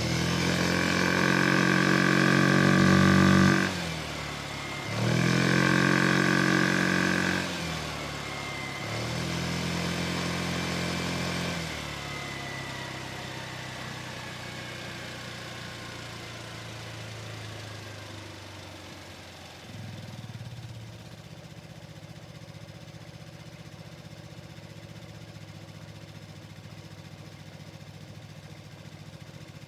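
Vespa Sprint 150's single-cylinder four-stroke engine, with a Malossi CVT kit, pulling hard through three bursts of throttle in the first twelve seconds. It then eases off and settles to a quieter steady idle, with one small blip of throttle about twenty seconds in.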